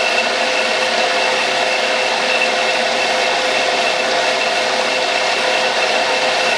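Metal lathe running steadily while taking a cut, a constant machine whine over an even hiss.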